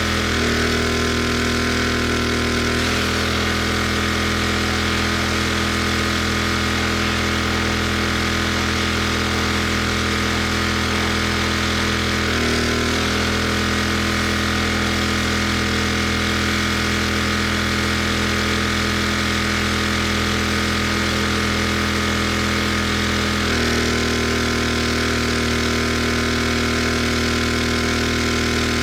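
Pressure washer's gas engine and pump running steadily; the note shifts a few times as the load changes.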